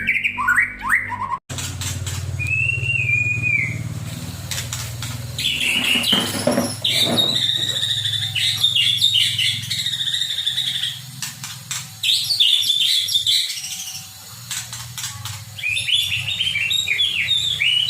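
White-rumped shama (murai batu) singing in rapid, varied whistled phrases, with a steady low hum underneath.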